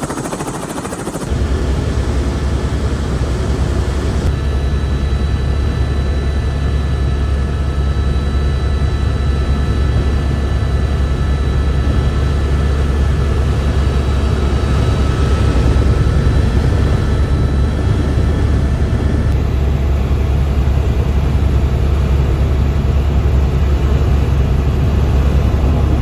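Helicopter running steadily: a heavy low rotor drone with a steady high turbine whine over it, stepping up in level about a second in.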